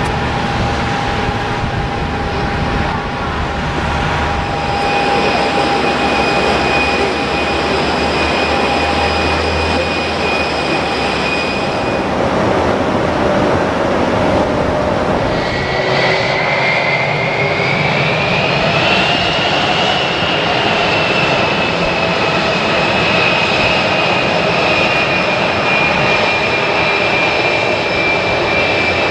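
Jet airliner engines running loud and steady. About halfway through, a high whine comes in, rises, then eases slightly down.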